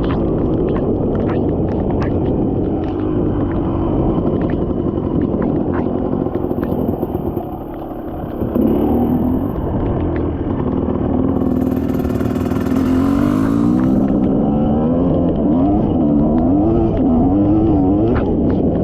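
Dirt bike engine running under changing throttle, its pitch rising and falling, and wavering quickly up and down near the end, with scattered sharp clicks and clatter over it.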